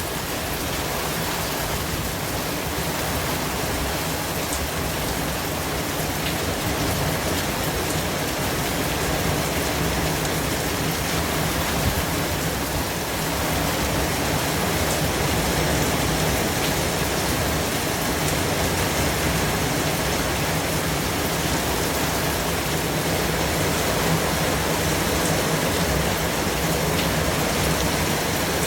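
Continuous white noise: an even, steady hiss spread across all pitches, with a few faint ticks, growing slightly louder about halfway through.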